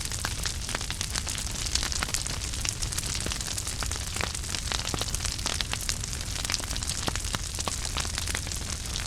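Wood fire in a fireplace crackling steadily, with frequent small, irregular pops and snaps over a soft hiss and a low rumble of the flames.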